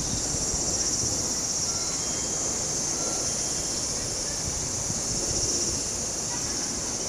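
Steady high-pitched insect chorus with wind buffeting the microphone; no passing train stands out.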